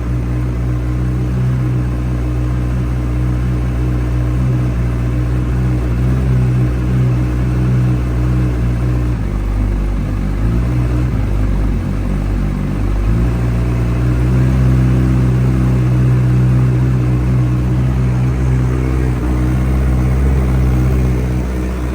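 Honda CBR1000RR SP2 race bike's inline-four engine idling steadily through a full titanium Akrapovic exhaust. Midway the idle wavers and dips for a few seconds before settling again.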